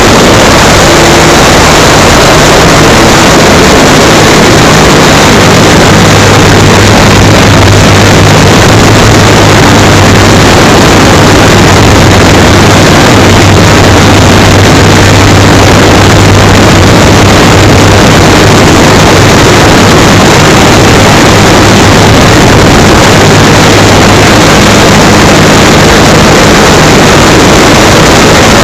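Electric motor and propeller of an FMS Cessna 182 RC model plane running in flight, heard from a camera mounted on board: a very loud, steady rush of propeller and air noise over a low hum that strengthens for a stretch in the middle.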